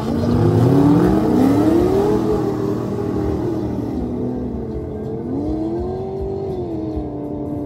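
Drag-racing car engine at full throttle down the quarter-mile strip. Its pitch climbs steeply for about two seconds, drops back at a gear change, climbs again, then holds steady near the end.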